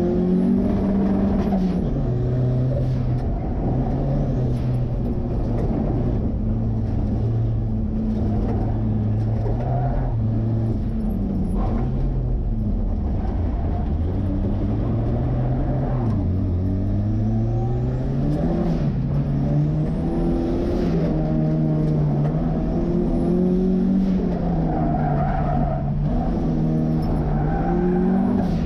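Turbocharged Ford 2.3-litre four-cylinder in a 1963 Volvo Amazon running hard, its pitch climbing and dropping again and again as the car accelerates and lifts off between corners.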